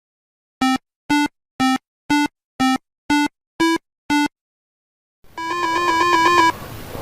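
Eight short electronic beeps, about two a second, rocking slightly between two pitches. From about five seconds in, a hiss comes up with a fast-warbling two-tone electronic trill, like a phone ringtone.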